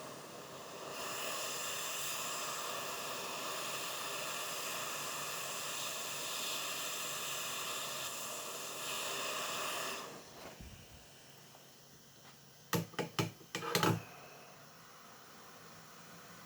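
A steady hiss of blowing air runs for about nine seconds and cuts off suddenly. A few seconds later comes a quick cluster of about five sharp clicks or taps.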